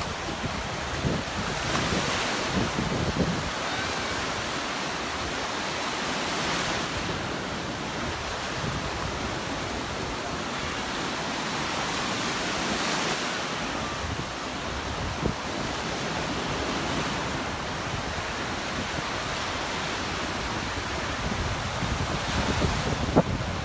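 Waves breaking and washing up on a sandy beach, swelling every few seconds, with wind buffeting the microphone.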